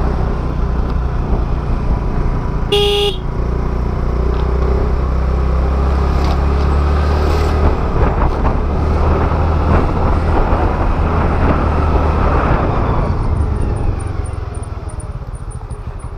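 Riding noise from a Honda Activa scooter on the move: a steady low engine and wind rumble, with one short vehicle horn toot about three seconds in. The rumble eases near the end as the scooter slows.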